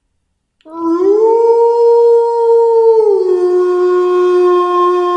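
Wolf howling: after a brief silence, one long howl starts, rises in pitch, holds steady, then drops about three seconds in to a lower held note.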